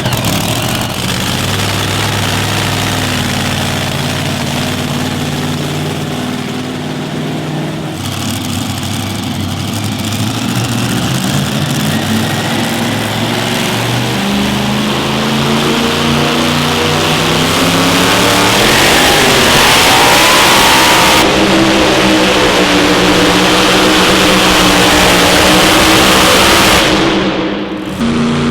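A competition pulling vehicle's engine running hard under load as it drags the sled. Its pitch sags and climbs several times, it grows louder in the second half, and it cuts off suddenly near the end.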